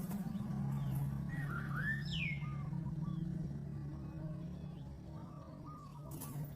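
A small bird chirping: a few short calls, with one quick downward-sweeping whistle about two seconds in, over a steady low hum.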